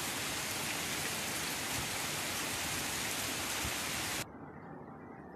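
Rain falling steadily, an even hiss. About four seconds in it cuts off abruptly, leaving a fainter, duller hiss.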